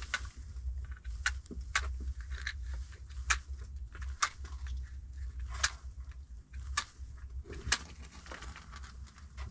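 Matches struck again and again on a damp matchbox, short sharp scrapes about once a second that fail to light: the striker strip has got damp.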